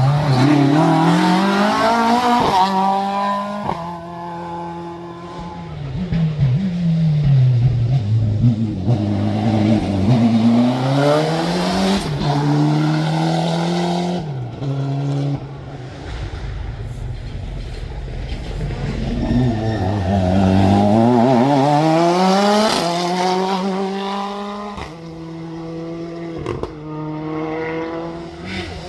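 Rally car engines revving hard and changing gear, the pitch climbing and dropping several times over.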